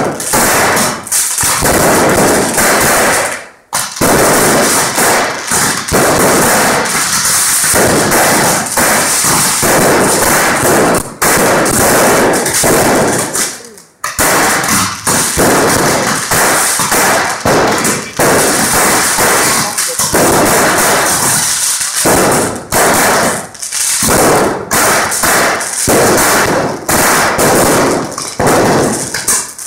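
Fireworks going off: dense, rapid crackling and popping that runs almost without a break, with short lulls about four and fourteen seconds in.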